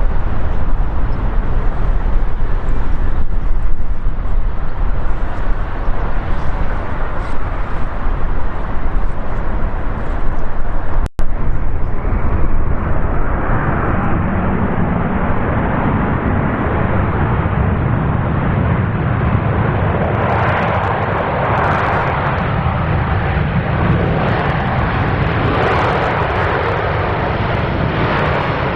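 Jet noise of an arriving Boeing 787 Dreamliner, a steady loud rumble. The sound drops out for an instant about eleven seconds in, and after that the noise carries more midrange.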